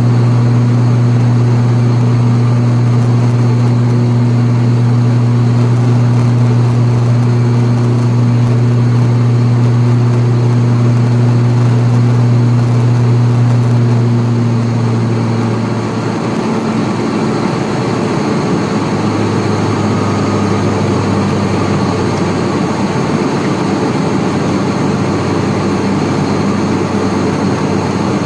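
ATR42-600 turboprop in flight, heard from inside the cabin: its Pratt & Whitney PW127M engines and propellers make a loud, steady low drone. About halfway through the drone drops lower in pitch and gives way to a rougher rushing sound, a change in propeller speed or engine power.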